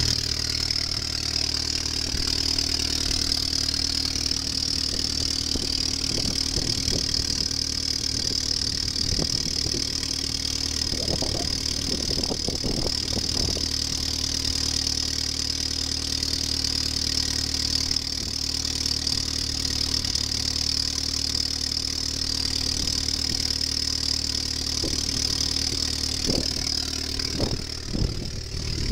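2011 Chevrolet Cruze's 1.4-litre turbocharged four-cylinder engine idling steadily during a salvage-yard engine test, with a steady hiss over the engine hum and a few faint knocks about midway and near the end. The yard judges it a sound, healthy motor.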